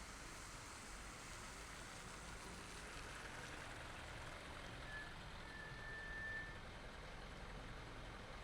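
Steady, faint road and traffic noise of a car driving through city streets. A thin high tone sounds briefly about five seconds in, then again for about a second.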